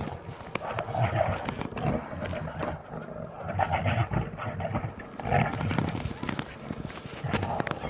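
Grizzly bears fighting, roaring and growling in loud bursts that come about every second.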